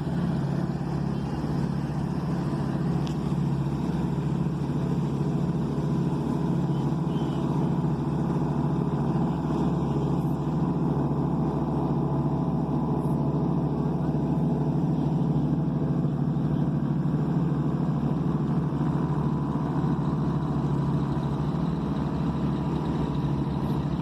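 An engine running steadily at constant speed, a continuous low drone that neither rises nor falls.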